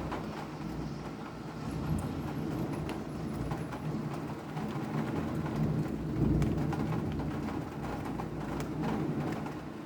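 Rain falling, with scattered drops ticking over a steady low rumble.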